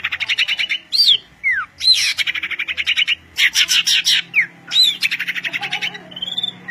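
A songbird singing loudly and persistently, repeating one phrase about every second and a half: a clear whistle sliding downward, then a fast dry trill of many quick notes.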